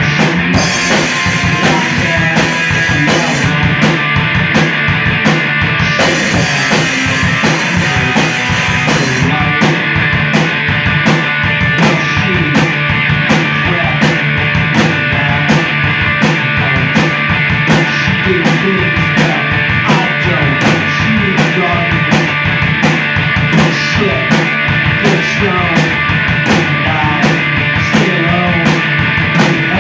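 Rock band playing live, with a drum kit keeping a steady beat under guitar. Cymbals crash and wash in the first few seconds and again from about six to nine seconds in.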